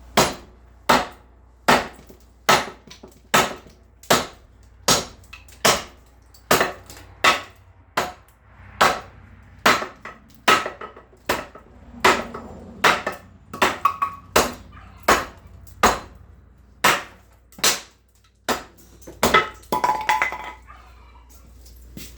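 Hand-forged 5160 truck-spring steel cleaver chopping repeatedly into wood: a steady run of sharp chops, a little faster than one a second, with a short pause near the end.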